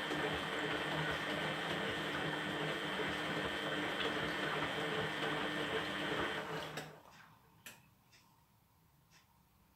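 Beko WTB740E1W washing machine running on its rinse cycle: a steady hum with water noise, which stops about seven seconds in, followed by a few faint clicks.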